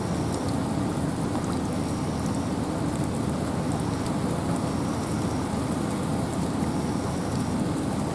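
Steady rain and wind in a forest: a dense, even hiss weighted toward the low end, with faint scattered ticks of drops above it.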